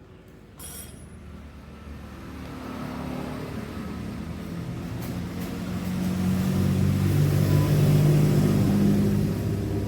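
A motor vehicle engine running with a steady low hum that grows gradually louder over several seconds, then eases slightly near the end. A short click sounds just under a second in.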